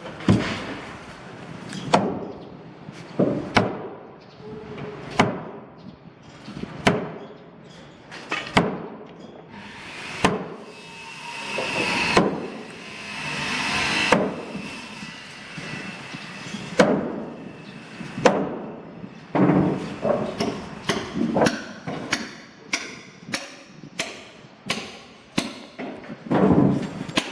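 Hammer blows on wood, at first one about every second and a half, then coming faster, two or three a second, over the last third. A few seconds of rasping noise with a steady whine sit in the middle.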